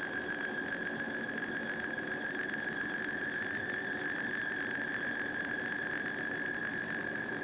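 Metal lathe running steadily, with a constant high-pitched whine over a lower machine hum.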